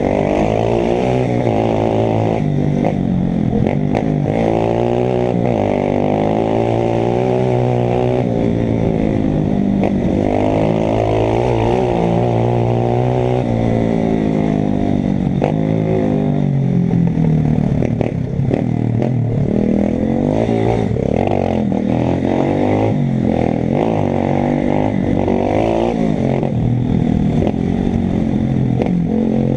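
125 cc pit bike's single-cylinder four-stroke engine under hard riding, its pitch climbing and dropping back repeatedly as it is revved up through the gears, with a short dip about 18 seconds in.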